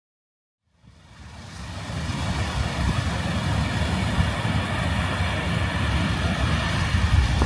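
Strong wind buffeting the microphone, fading in about a second in and then staying loud as a gusty low rumble with a hiss over it.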